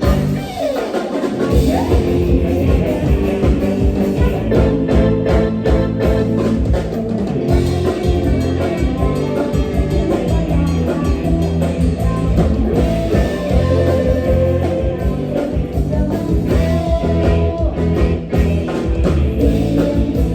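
Live Isan mor lam band playing an upbeat toei tune, with electric guitar, bass and a drum kit keeping a steady beat.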